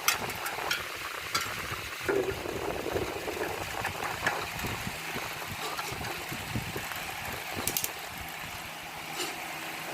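Scattered small clicks and knocks of hands and tools handling ceiling-fan parts, over a steady background hiss.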